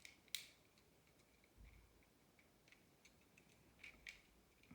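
Faint, scattered clicks of plastic Beyblade parts being handled and fitted together, the sharpest about a third of a second in, over a faint steady high tone.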